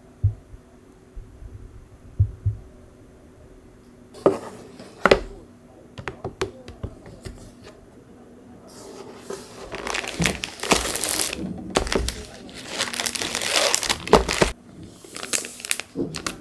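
A couple of knocks, then several seconds of crinkling and rustling of packaging being handled and crumpled.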